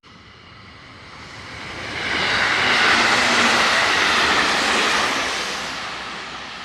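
A train passing at speed: its running noise grows, peaks about two to five seconds in, then fades as it moves away.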